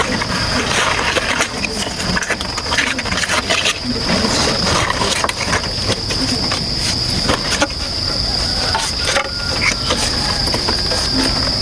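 Insects trilling in one steady high-pitched drone, with scattered short clicks and knocks throughout.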